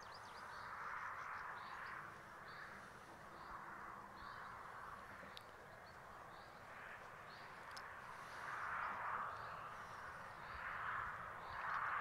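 Faint outdoor ambience with birds calling in the distance, soft harsh calls that come and go over a steady quiet background.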